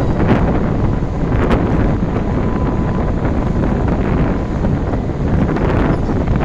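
Strong wind blowing against the microphone, a loud low rumble that swells and eases in gusts.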